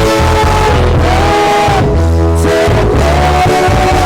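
Worship music from a live church band: long held sung notes over sustained keyboard and bass.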